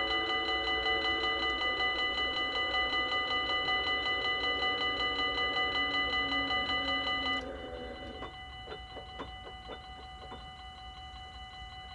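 Dutch level-crossing warning bells ringing fast, a few strikes a second. The nearer bell cuts off about seven seconds in while a fainter bell keeps ringing, with a few sharp clicks soon after.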